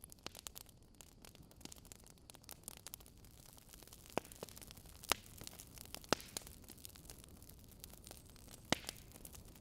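Wood fire burning in a fireplace: a faint steady hiss with scattered crackles and a few sharper pops in the second half.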